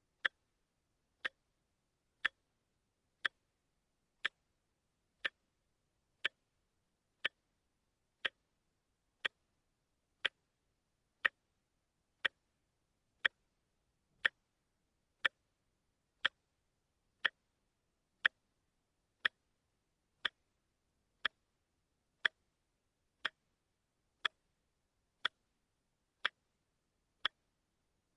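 Wristwatch ticking steadily, one crisp tick a second: the stepping second hand of a quartz movement.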